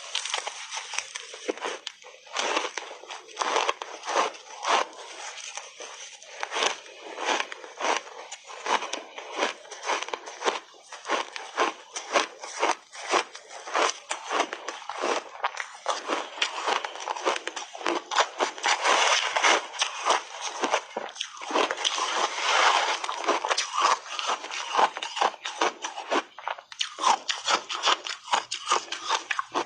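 Frozen ice dusted with matcha powder being bitten and chewed: rapid, irregular crunches, several a second, with no break.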